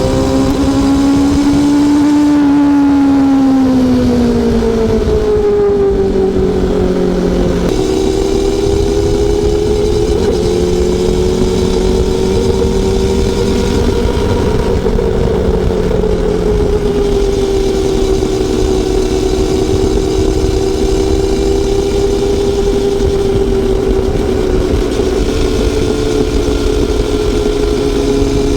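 Honda CB400SF Super Four's inline-four engine running under way. Its pitch rises for about two seconds, then falls over the next five, changes abruptly about eight seconds in, and then holds nearly steady at a cruise.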